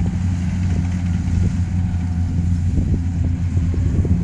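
Combine harvester's engine running with a steady low drone as it cuts rice.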